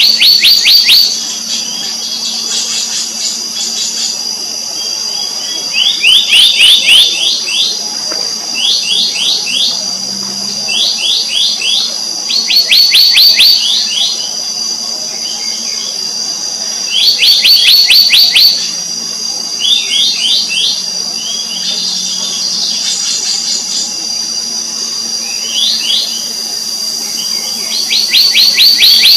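Black-naped monarchs calling: short, rapid series of sharp ringing notes, each run lasting under a second and repeated every two to three seconds. A steady high-pitched whine and a faint low hum run behind them.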